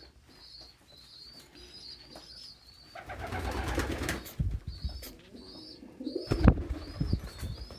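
Domestic pigeons cooing, with repeated short high peeping calls. A louder burst of bird sound comes about three seconds in, and a sharp low thump about six and a half seconds in.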